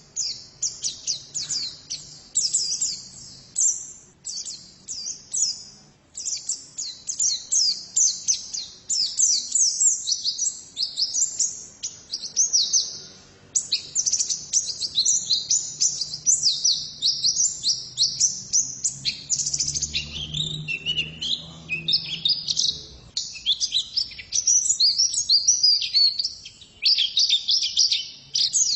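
Female white-eye (pleci) singing a long, rapid run of high chirps and twittering trills with only brief pauses.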